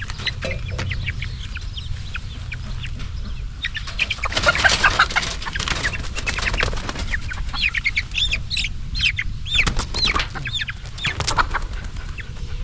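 A mother bird's wings flapping in a loud scuffle about four seconds in, as she and her chicks are caught by hand. Through the second half, the chicks peep in a run of short, arching calls.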